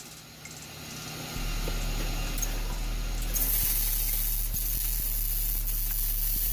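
A vehicle lift's electric hydraulic pump motor starts up about a second and a half in and runs with a steady hum. A loud hiss joins it about two seconds later.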